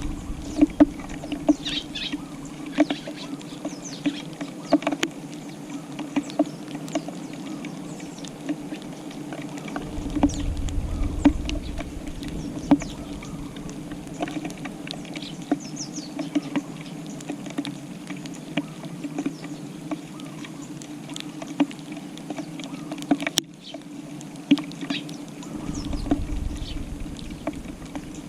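Tree sparrows pecking grass seed off a tile floor: many small, irregular taps and clicks over a steady low hum, with a low rumble rising twice.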